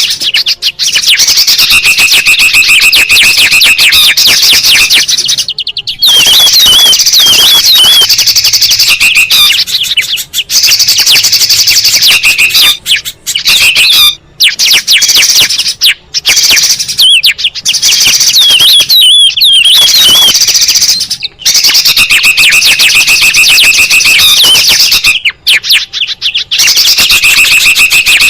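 A loud, dense bird-lure recording of several songbirds calling at once: continuous chattering trills with quick warbling notes over them, broken by brief gaps every few seconds.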